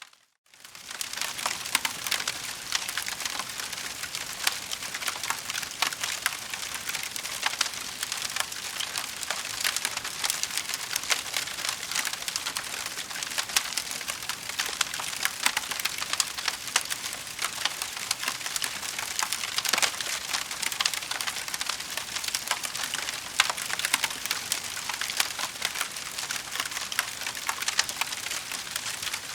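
Wood fire crackling: a dense, steady stream of small pops and snaps, which drops out for about half a second at the very start before resuming.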